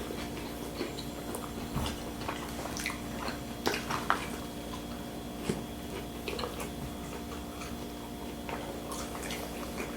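People chewing and eating barbecue food: scattered small wet clicks and mouth smacks, over a steady faint hum.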